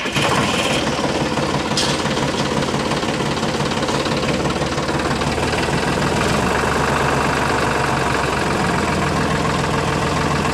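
Small engine of a homemade miniature tractor running steadily with a rapid, even chatter, and a brief click about two seconds in.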